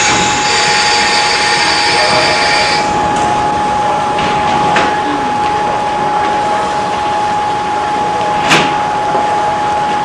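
Old Class 73 electric train: high squealing tones that cut off about three seconds in, then a steady rushing noise with a thin constant whine and a single sharp click near the end.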